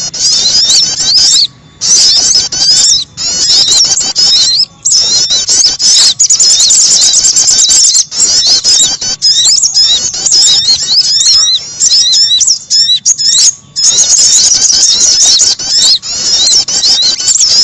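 Bird-lure recording of small songbirds, sogon and prenjak calls, chattering in a dense run of fast, high-pitched chirps and trills with brief breaks every second or two.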